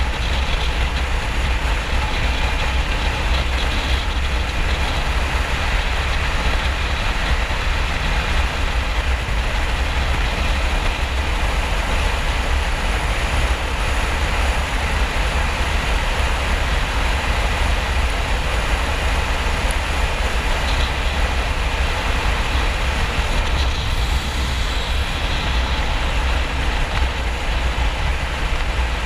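A Harley-Davidson XL1200N Nightster's air-cooled 1200 cc V-twin runs steadily at motorway speed, its low drone mixed with a broad rush of wind noise.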